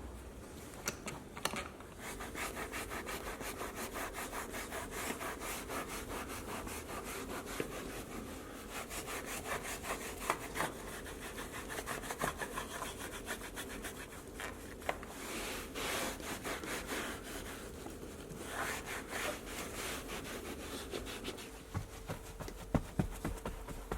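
Stiff brush scrubbing a surface in rapid back-and-forth strokes, a steady rasping rhythm with a few harder strokes now and then.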